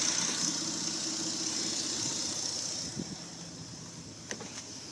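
Mitsubishi 6G75 3.8-litre V6 idling evenly, firing on all cylinders with its injector connector plugged back in. The engine sound drops off about three seconds in, and a few light clicks follow near the end.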